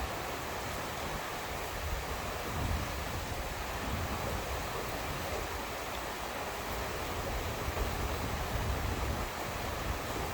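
Steady rain falling, an even hiss, with a low rumble that swells a little now and then.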